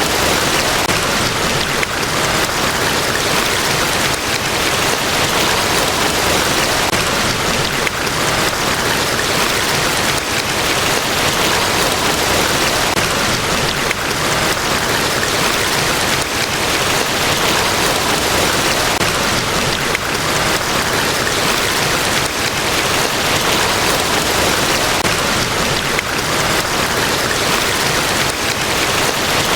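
Niagara Falls, a large waterfall, rushing steadily: a dense, even roar of falling water with no breaks or changes.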